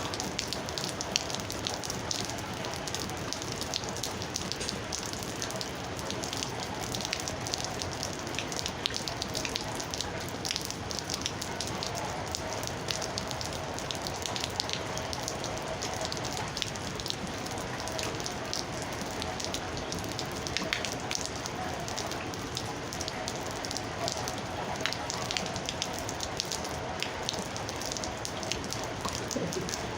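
Steady rain falling, with many separate drops striking a hard surface.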